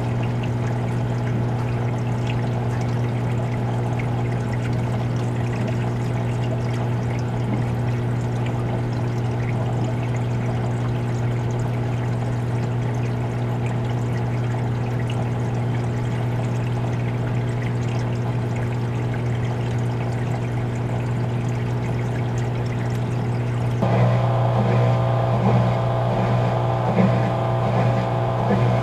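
RCA RPW160-B portable washing machine's drain pump running with a steady hum while the soapy wash water pours out. About 24 s in the machine's sound gets louder and rougher, with a pulsing beat added to the hum.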